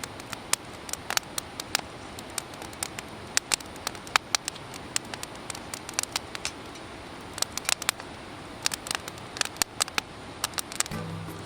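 Wood campfire crackling: irregular sharp pops and snaps, a few each second, over a steady hiss.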